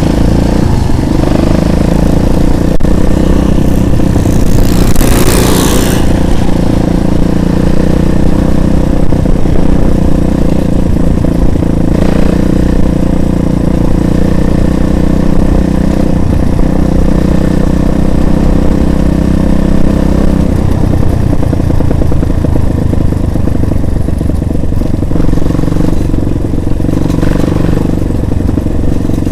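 Motorcycle engine running steadily and loud, close to the microphone, with a brief hiss about four to six seconds in.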